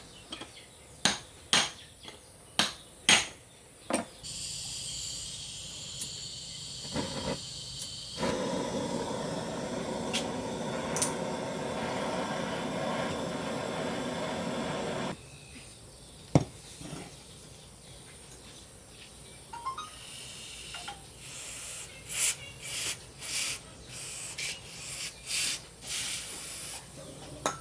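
Metal tools clinking and tapping on truck parts, with a steady hiss lasting about ten seconds in the middle, joined by a whirring hum for its louder second half.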